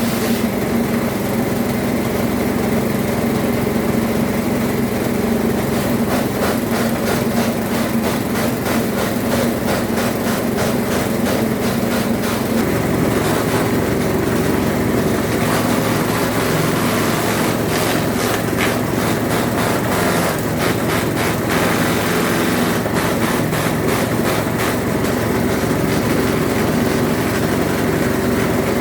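Small petrol engine of a brush cutter running steadily while clearing weeds, its note changing about 13 seconds in.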